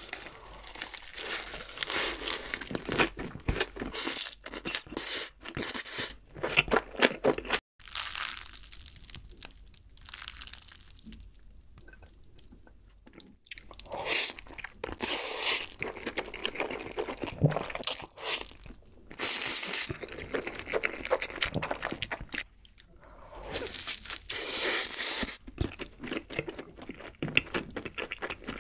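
Close-miked eating sounds: crunchy bites and chewing of a lettuce wrap, then mouthfuls of black-bean noodles being chewed, in several edited stretches with short quiet gaps between them.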